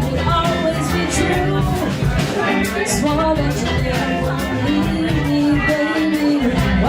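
Live rock band playing an instrumental passage, with drums keeping a steady beat under held melodic notes.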